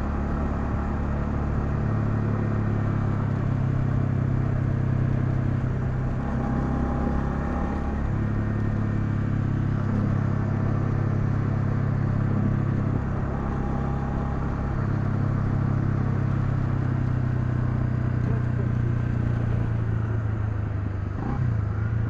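Honda CL250's single-cylinder engine running steadily while riding, with wind noise over the microphone; the engine note shifts a few times as the throttle or gear changes.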